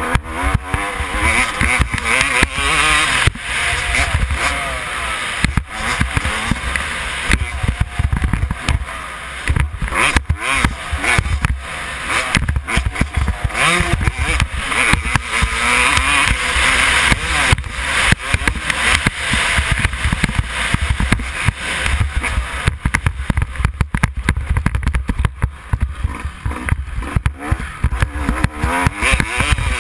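Yamaha YZ250 dirt bike engine revving up and down repeatedly as it is ridden hard round a motocross track, with wind buffeting the microphone.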